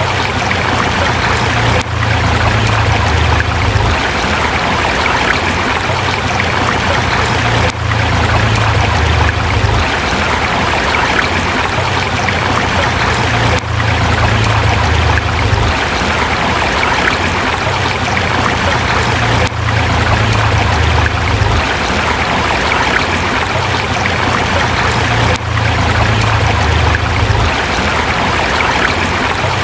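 Steady rush of a forest river flowing over rocks, with a low rumble underneath and a brief dip in loudness about every six seconds.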